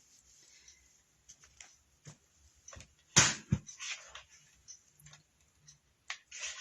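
Tabletop handling noises from crafting work: light taps, clicks and fabric rustling, with two sharper knocks close together about three seconds in.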